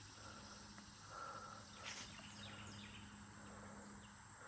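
Quiet creekside ambience: a faint, steady high-pitched insect buzz, with a few faint chirps and a single soft click about two seconds in.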